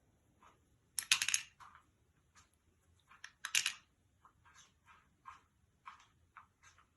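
A series of small, sharp clicks and rattles, with two louder bursts of rapid clicking about a second in and again past three seconds, and scattered single clicks in between.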